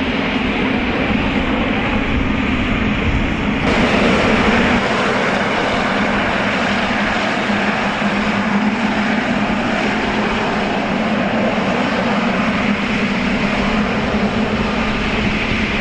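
Jet airliner engines running, a loud steady roar with a sudden change in tone about four seconds in.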